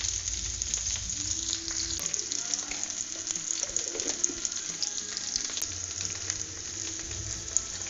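Whole green chillies sizzling and crackling steadily in hot oil in a small pan.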